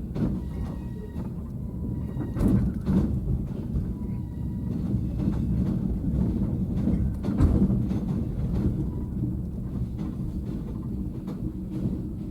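Passenger train running on rails: a steady low rumble with irregular clicks and knocks of the wheels over the track, and a few heavier knocks.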